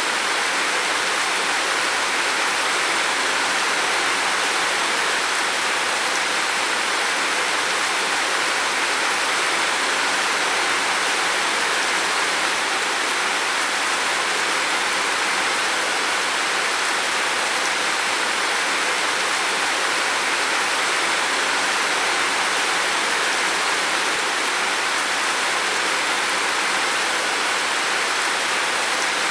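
Heavy rain falling on a roof, a steady dense hiss without breaks or separate drops standing out.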